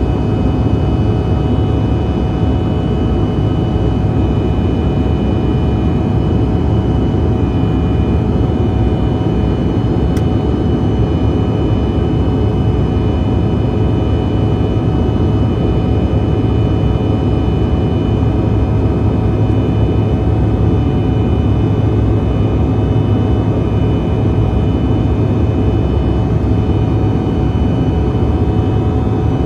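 Steady cabin drone of a CRJ-900's rear-mounted turbofan engines, heard from inside the cabin: a deep rumble with several steady whining tones above it.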